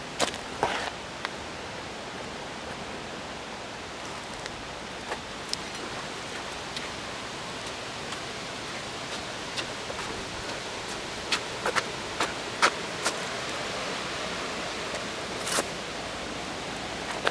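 Steady rush of a river and wind, with scattered short clicks and taps over it, several close together about twelve seconds in.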